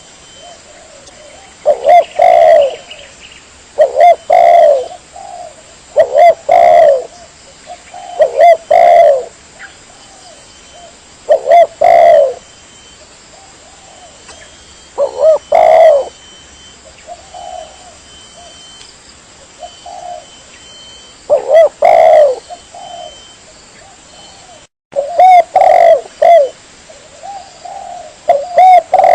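Spotted dove (tekukur) cooing loudly in repeated short phrases of a few coos, about one phrase every two seconds, with softer, spaced-out coos in a lull partway through. It is a recorded lure call meant to draw wild doves in.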